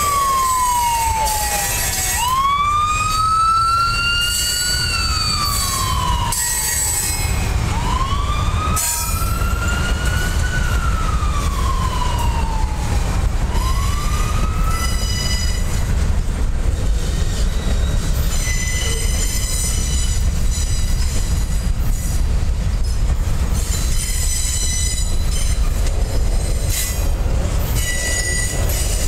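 Freight train cars rolling past with a steady low rumble. Through the first half a siren wails up and down in slow cycles and then fades. In the second half the wheels give high, steady squeals against the rails.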